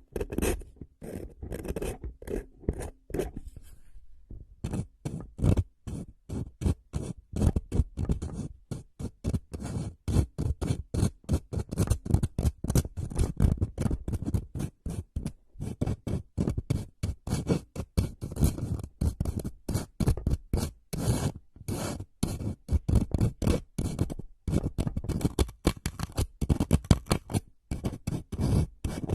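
Rapid, repeated scratching or scraping strokes on a surface close to the microphone, several a second, with a few brief pauses.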